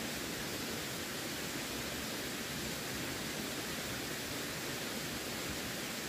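Running water rushing steadily: an even, unbroken hiss with no separate splashes.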